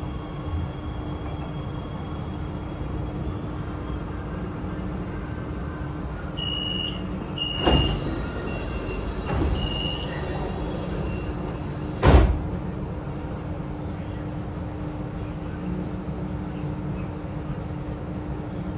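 Inside a Chengdu Metro Line 7 A-type train car, a steady hum with the car's running noise. Short high beeps sound on and off through the middle. Two sharp knocks come about 8 and 12 seconds in, the second the loudest.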